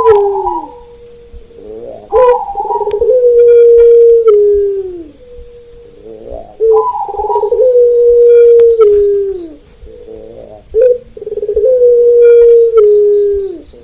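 Birdsong with zebra dove (perkutut) cooing: long steady calls of about two seconds each, sliding down at the end and repeating about every four seconds, with shorter higher notes between them. A high pulsing insect trill runs underneath.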